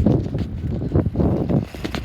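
Wind buffeting the microphone in uneven gusts, with a few sharp knocks, about a second apart.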